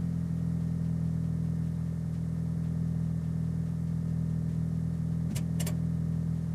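Video-game car engine running at a steady, even pitch, with two quick clicks near the end.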